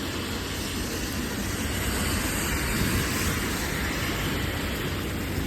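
Heavy thunderstorm rain falling in a steady rushing noise, over a low rumble, swelling slightly midway.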